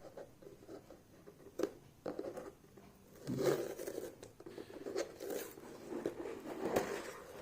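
A hair dryer's packaging being handled and opened by hand: intermittent rustling and scraping, with a sharp click about a second and a half in.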